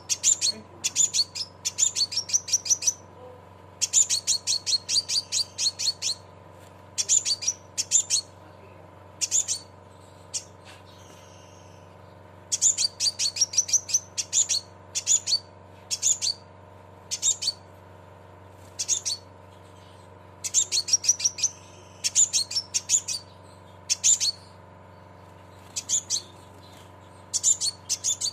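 Scarlet minivet (sepah raja) giving its 'cret cret' call: rapid trains of sharp, high chips lasting up to about two seconds, repeated with short gaps, over a steady low electrical hum.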